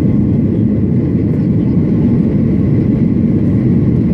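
Steady cabin noise of a Boeing 737-800 heard from a passenger seat: a low, even rush of its CFM56 jet engines and the airflow, with a faint steady high tone above it.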